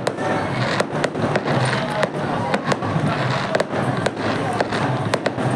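Fireworks going off in quick succession, with sharp bangs about three a second over a continuous crackling haze.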